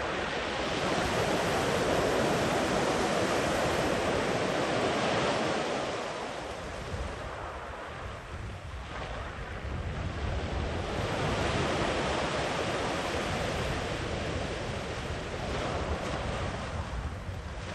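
Sea surf: waves breaking and washing up the beach in a steady rush, swelling twice with a quieter lull between.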